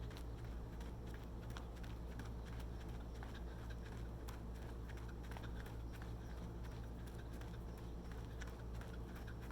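Running footsteps: a quick, steady patter of footfalls, over a low steady hum.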